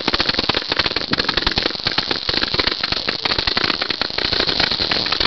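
Fireworks going off as a rapid, unbroken string of sharp pops and cracks, many each second, like a string of firecrackers.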